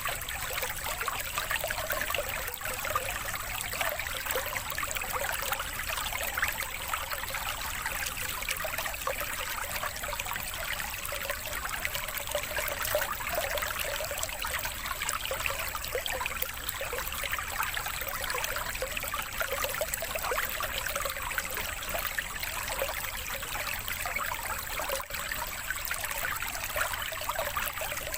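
Steady trickling, splashing running water, as of a small stream or fountain, played as a water-therapy sound for birds.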